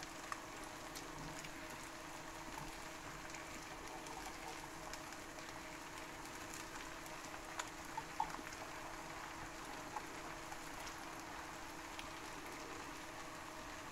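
Fried cheese and pancake batter sizzling gently in its own fat in a frying pan: a steady quiet crackle with scattered small pops, as the cheese crisps underneath. A faint steady hum runs beneath it.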